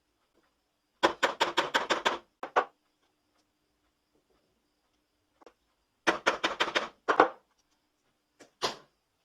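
Two quick runs of sharp taps or knocks, each about a second long at roughly eight taps a second, with a few single knocks after each run.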